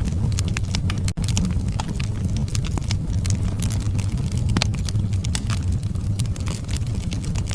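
Wood fire burning in a fireplace: many sharp crackles and pops at irregular intervals over a steady low rumble of flame, with a momentary dropout about a second in.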